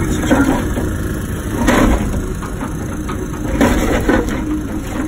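Wacker Neuson ET145 excavator's diesel engine running steadily, with three louder scraping sounds about two seconds apart as the machine works rock.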